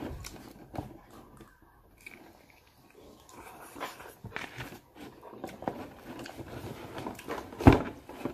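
Close-up eating sounds of a person biting into and chewing sauce-glazed fried chicken held by hand, in irregular small bites and chews, with one sharp louder sound near the end.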